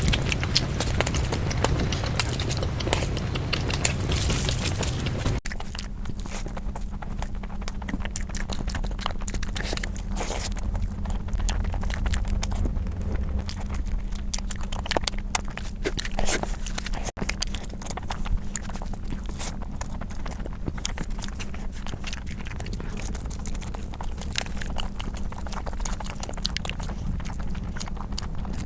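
Close-miked chewing and mouth sounds of a person eating rice and meat curry: a dense run of small wet clicks and crunches. It breaks off abruptly twice, where clips are joined, and a faint steady low hum sits under it after the first break.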